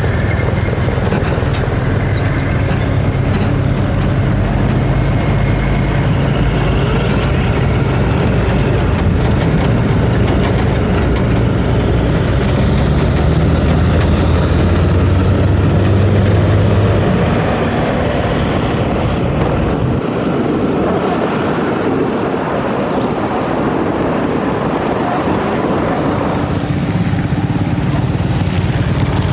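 Heavy truck's diesel engine running under load, with a whine that climbs in pitch for several seconds. It eases off a little past halfway, then picks up again near the end.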